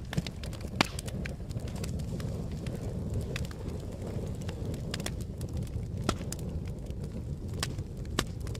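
Campfire burning with a steady low rumble and scattered sharp crackles and pops from the burning wood, the loudest pop about a second in.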